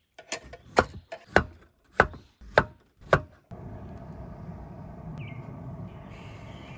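A knife chopping on a cutting board, about six even strokes, then a cut a little past halfway to a steady sizzle of food frying in a pan.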